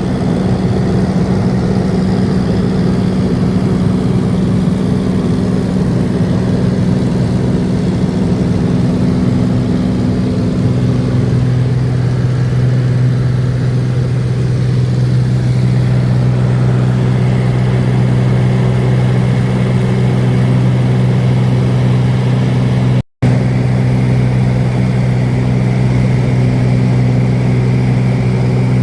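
Light seaplane's piston engine and propeller droning steadily in flight; the engine note shifts slightly lower about ten seconds in. The sound cuts out completely for a split second a little after twenty seconds.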